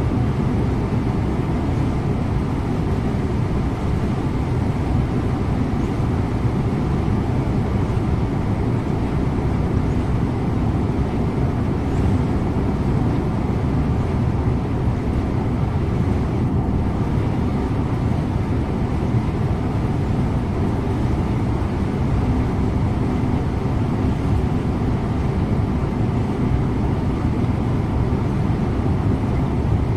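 Scania InterLink bus cruising at steady speed, heard from inside the bus: a continuous low rumble of engine and road noise that holds even throughout.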